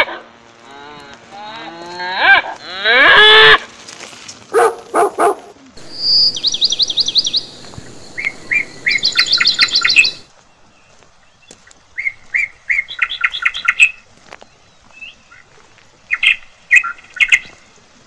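A loud, drawn-out animal call that slides in pitch fills the first three seconds or so. It is followed by birds chirping in several bursts of rapid repeated notes and trills, with quiet gaps between them.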